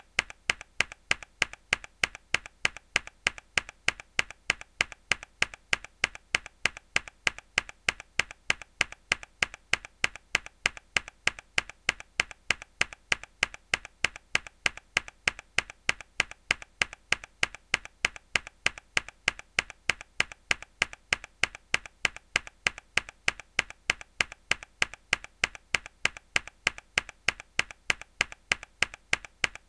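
A mechanical keyboard key struck hard, again and again at an even, quick rate: sharp, bright clicks.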